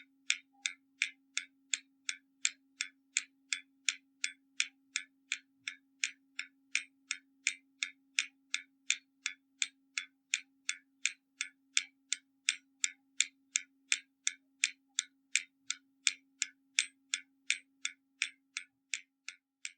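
Hermle mechanical skeleton clock ticking steadily, about three even ticks a second.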